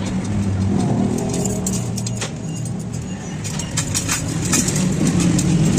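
A motor vehicle engine running steadily with a low hum, with scattered sharp metallic clicks and clinks over it.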